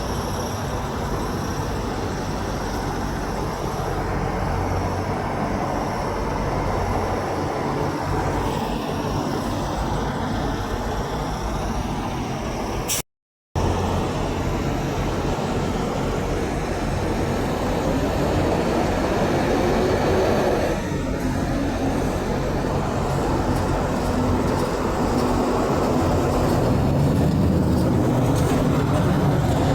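Semi trucks and road traffic running past in a steady rumble of engines and tyres, with no clear horn blast. The sound drops out for about half a second roughly thirteen seconds in, and it grows slightly louder near the end.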